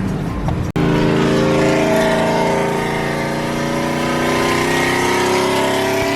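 A vehicle engine revved high and held there, its pitch creeping slowly upward. The sound cuts out briefly under a second in.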